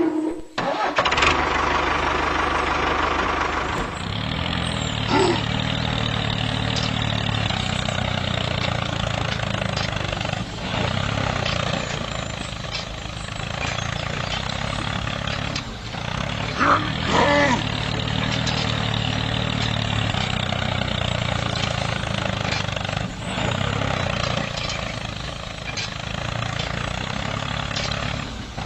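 DIY mini tractor running steadily with an engine-like drone, with two brief squeaks, about five seconds in and again around seventeen seconds in.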